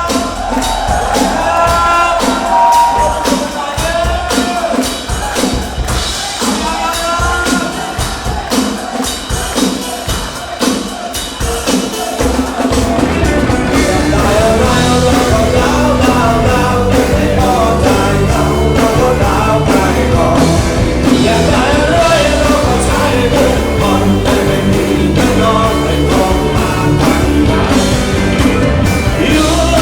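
Live rock song with a singer. The voice starts over light backing, and about thirteen seconds in the full band comes in with drums and bass under the vocal.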